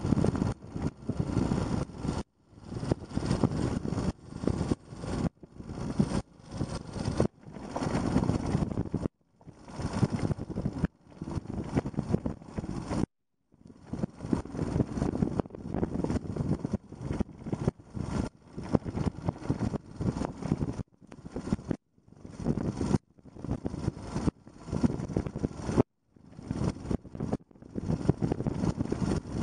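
Yamaha XT250 trail bike's air-cooled single-cylinder four-stroke engine running while riding, with a dense rushing noise. The sound cuts out completely for a split second every one to three seconds.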